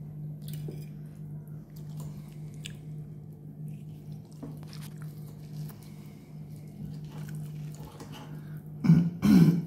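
A person chewing food, with small clicks of a metal fork against a ceramic plate, over a steady low hum. Loud voiced sounds come near the end.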